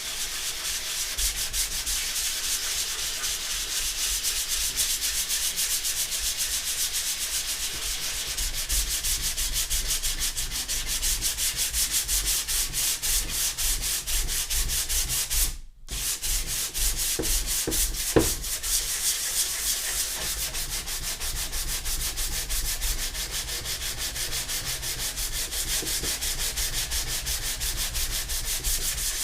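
Sandpaper rubbed by hand over a plastic car headlight lens in quick, even back-and-forth strokes, grinding off an old lacquer coat. The rubbing stops for a moment about halfway, and there is a light knock a couple of seconds later.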